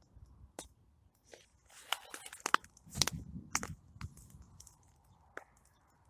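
Campfire of plum logs burning and crackling: irregular sharp pops and snaps, with a denser run of louder pops and a brief hiss about two to four seconds in.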